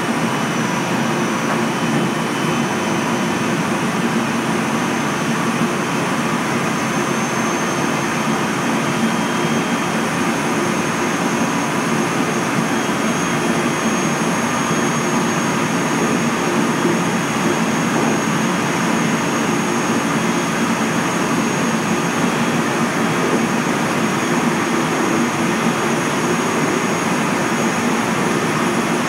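JR Central 373 series electric multiple unit running steadily between stations, heard from inside the car: an even rumble of wheels on rail with a few faint steady high whines over it.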